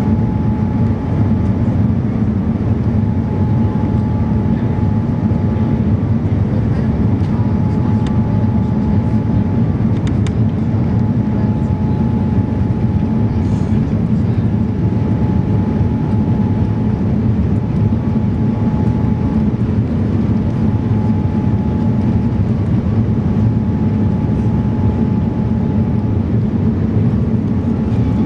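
Steady cabin noise of a Boeing 787-9 airliner heard from inside the economy cabin: an even rumble of engines and airflow, with a faint thin tone that fades in and out.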